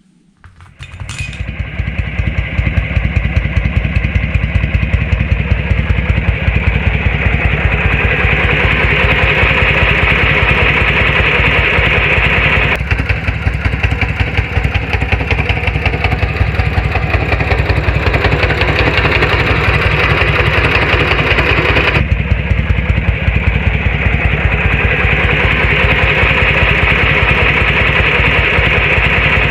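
Harley-Davidson Shovelhead V-twin engine starting about a second in and settling into a steady, loud running beat.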